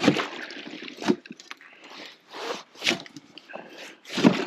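A shovel crunching and scraping through ice and slush, four uneven strokes.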